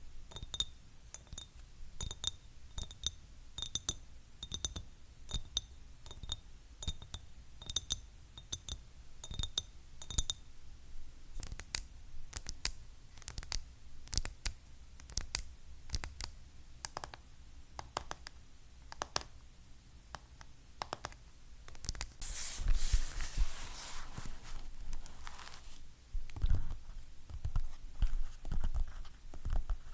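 Fingernails tapping on hard objects in a steady run of quick taps: at first each tap carries a ringing note, then the taps turn to drier clicks. About two-thirds through comes a few seconds of scratching, and near the end duller knocks.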